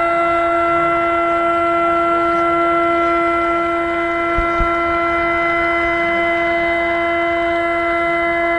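A loud, steady, horn-like tone held without any change in pitch or level, with two brief low thumps about halfway through.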